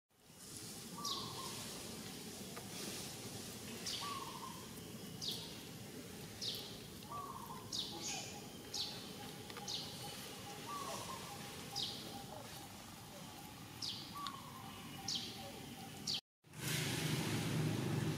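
Birds calling: a short, high, falling chirp repeats about once a second, with a lower note every few seconds. Near the end the sound cuts to a steady rush of wind noise.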